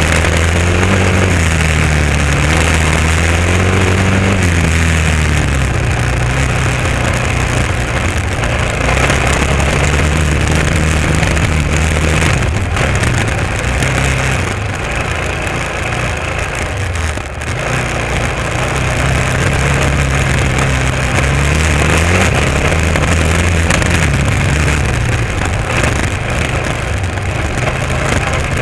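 Honda XR650R's big single-cylinder four-stroke engine running under way, its pitch rising and falling with the throttle and easing off briefly about two-thirds of the way through. A steady rush of wind and tyre noise on a gravel road runs under it.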